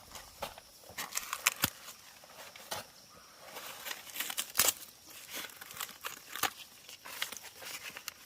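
Irregular crackling and snapping, about a dozen sharp snaps at uneven spacing over a faint rustle, like dry material being handled or torn.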